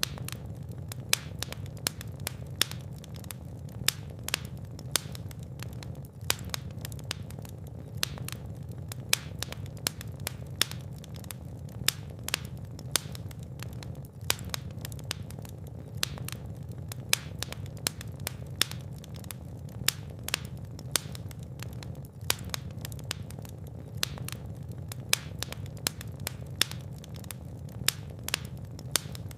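Fire burning in a fireplace: a steady low rumble of flames with frequent sharp crackles and pops, a few louder snaps about once a second.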